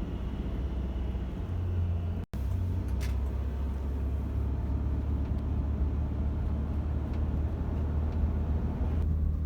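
Steady low rumble of highway traffic, which drops out for an instant about two seconds in.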